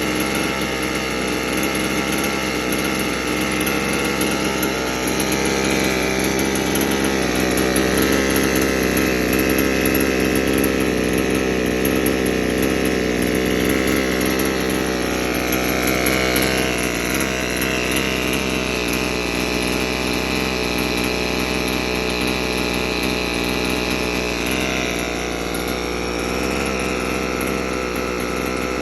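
Small gasoline model-helicopter engine running on a test stand, its speed set by hand. It runs steadily at speed, with the pitch rising a little in the first seconds and stepping to new speeds about halfway through and again near the end.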